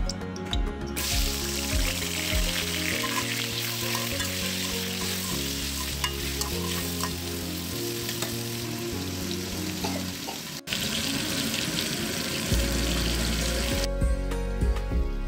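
Turmeric-and-salt-coated potato cubes sizzling as they fry in hot soybean oil in a metal karai. The sizzle starts about a second in, drops out for an instant about two-thirds of the way through, and stops shortly before the end.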